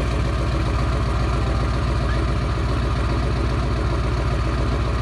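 1994.5 Ford 7.3 Power Stroke turbo-diesel V8 idling steadily, with an even low pulse.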